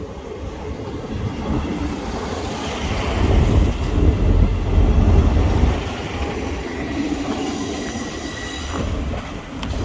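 A train running through the station: a deep rumble of wheels on rail builds to its loudest midway, then high-pitched wheel squeal rings out over a quieter rumble for the last few seconds.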